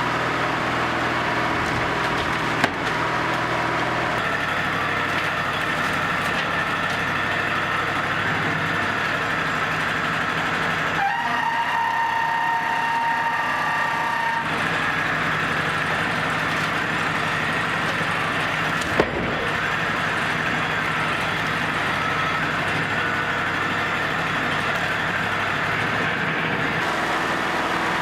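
Wood-Mizer LT35 portable band sawmill running steadily while sawing a log, a continuous engine-and-blade drone that shifts in tone a few times, with two short sharp clicks.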